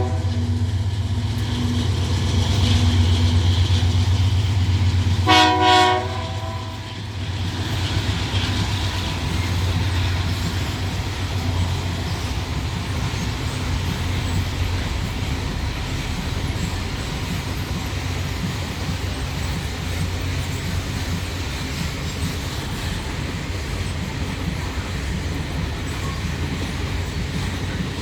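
Freight train pulled by three diesel locomotives working hard up a steep grade: a steady low engine drone, one short horn blast about five seconds in, then the long rumble of the freight cars rolling past with wheel and rail noise.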